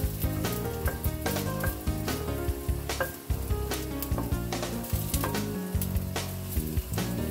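Sliced ginger sizzling in hot oil in a pot as it is sautéed, stirred with a wooden spoon. Background music with a steady beat plays along with it.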